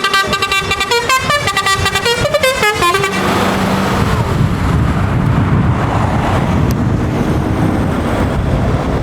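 A multi-tone musical car horn plays a short tune of stepping notes for about three seconds, ending on falling notes. A car engine then runs with a steady low rumble.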